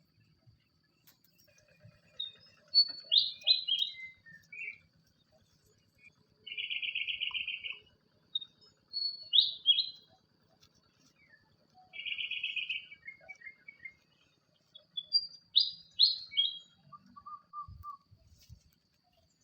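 A songbird singing in repeated phrases: quick clusters of short high notes, about every six seconds, alternating with a buzzy trill lasting a second or more.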